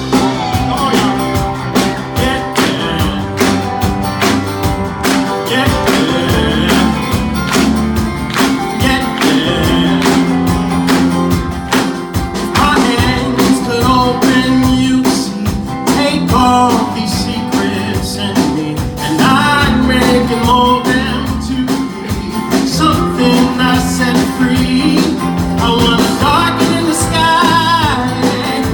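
Live band music with a steady drum beat, bass and guitar, and wordless, wavering sung lines over it from about halfway through.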